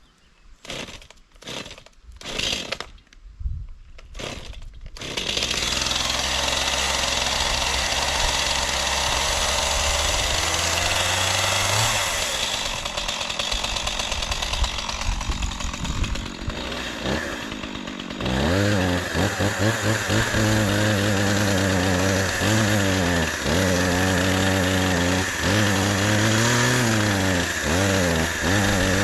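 Chainsaw running, after a few short sounds in the first five seconds, then cutting into a tree trunk. From about two-thirds of the way in, the engine's pitch repeatedly dips and climbs back as the chain loads and frees in the cut.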